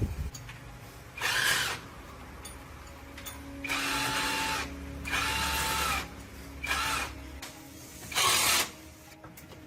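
Five short bursts of compressed-air hiss, each lasting half a second to a second, with gaps between them, over a low steady hum.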